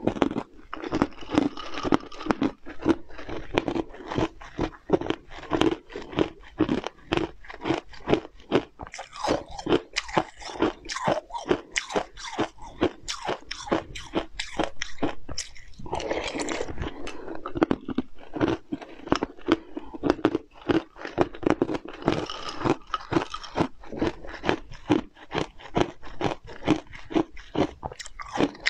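A person chewing and crunching mouthfuls of food close to the microphone: a fast, steady run of sharp crunches, several a second.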